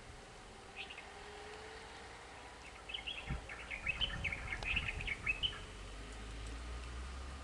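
Small bird chirping: a short call about a second in, then a run of quick high chirps for a couple of seconds, over a low rumble that sets in about three seconds in.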